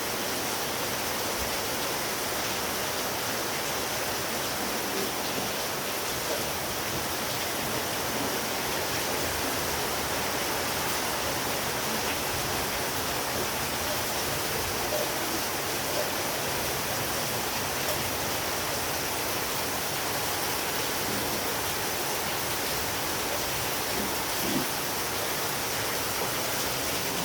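Heavy rain falling, heard as a steady, even hiss that does not change.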